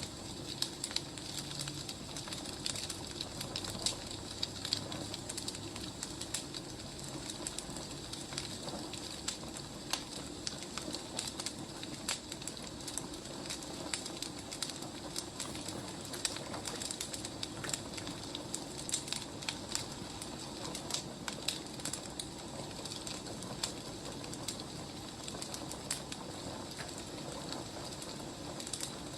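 Wood fire burning steadily, with a constant soft hiss and frequent irregular crackles and pops of the burning logs.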